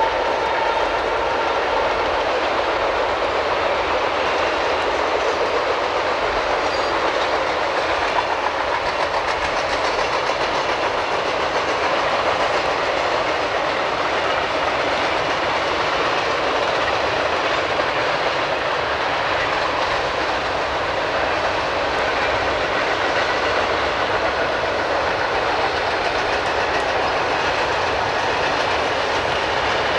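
Freight train cars (boxcars and tank cars) rolling steadily past: a continuous clatter of steel wheels on the rails.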